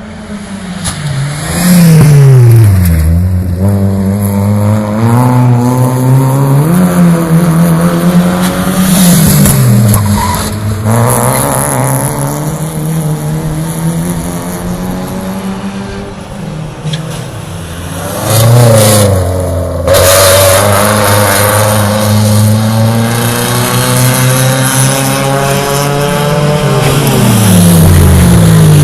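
Touring race car engines running hard, their pitch climbing under acceleration and dropping sharply four times as the cars brake and go through corners.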